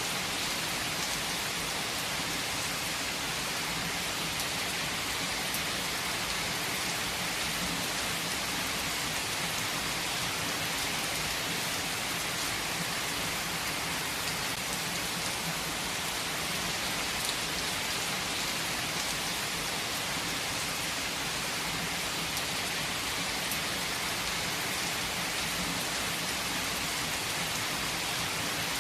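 Heavy rain falling steadily, an even hiss of drops on surfaces with faint scattered drip ticks.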